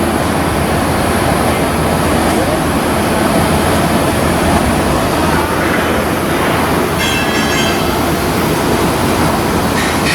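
Loud, steady machinery noise from shipbuilding work, with a brief high-pitched squeal about seven seconds in.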